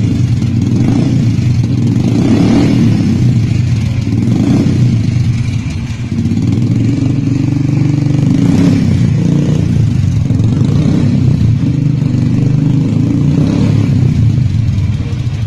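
Royal Enfield Thunderbird single-cylinder engine running through an aftermarket Cobra performance silencer, a loud deep exhaust note with a few short throttle blips.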